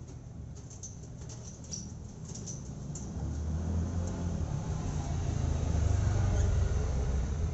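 A low rumble that swells from about three seconds in and eases off near the end, over faint high chirps and clicks from small birds in the first few seconds.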